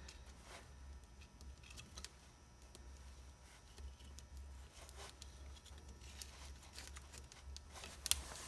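Kindling fire crackling faintly, with scattered small snaps and one sharper snap near the end, over a steady low hum.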